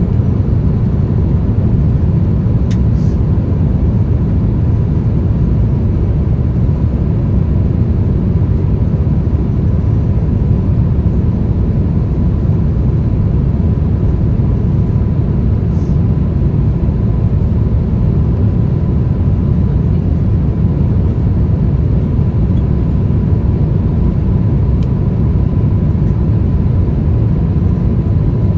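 Steady low rumble and rushing air of an Airbus A350-1000 in flight, heard from inside the cabin, with a faint steady tone running through it.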